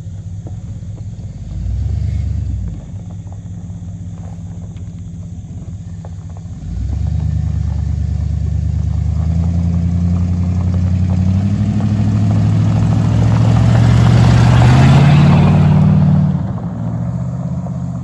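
Truck engine with its exhaust cut off, running loud and deep at idle. It gives a short blip of the throttle about two seconds in, then revs up steadily for about nine seconds, rising in pitch, before dropping back to idle near the end.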